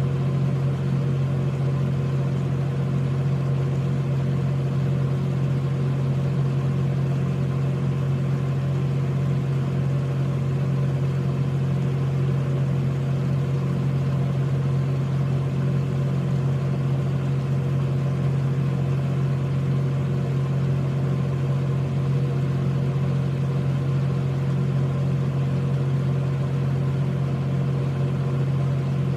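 A steady, unchanging low machine hum with a few faint higher tones above it.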